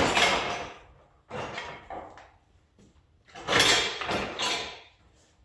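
Plastic body trim being pried off with a clip removal tool: a sharp snap at the start as a clip lets go, then scraping and rattling of the plastic, with two more bursts of prying and handling, the loudest about three and a half seconds in.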